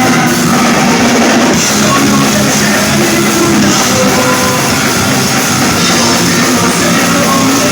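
A rock band playing live and loud: distorted electric guitars over a pounding drum kit, heard as a concert recording.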